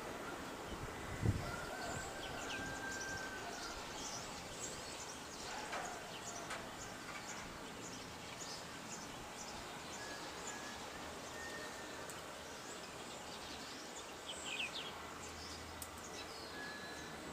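Small birds chirping in short, high calls scattered throughout, over a steady outdoor background hiss. A brief low thump about a second in.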